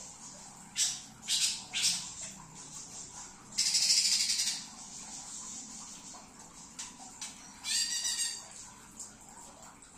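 Green leafbird (cucak ijo) singing in bursts: a few short, sharp high calls in the first two seconds, a loud dense phrase of song about three and a half seconds in, and a rapid rattling trill near eight seconds.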